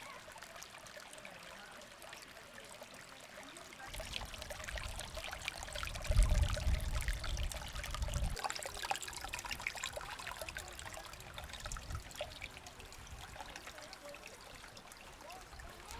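Water trickling and splashing steadily. A low rumble joins it about four seconds in and is loudest for a couple of seconds in the middle.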